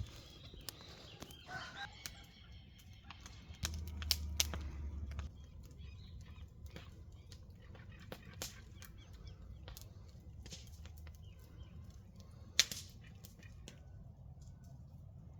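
A chicken gives a short call in the first couple of seconds, over scattered sharp clicks and cracks that come and go throughout, one louder crack near the end. A low rumble comes about four seconds in and lasts a second and a half.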